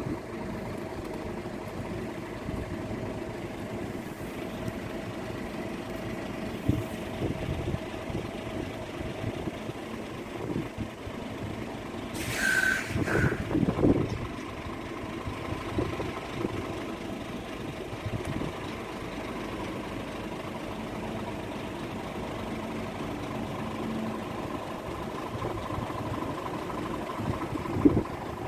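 Steady vehicle engine noise, like traffic idling at a railway level crossing, with one louder passing vehicle sound about halfway through.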